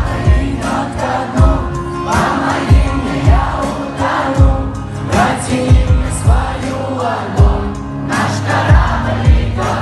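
Live concert music: a Russian pop-rap song over a PA system, with deep bass beats, and many voices of the crowd singing along.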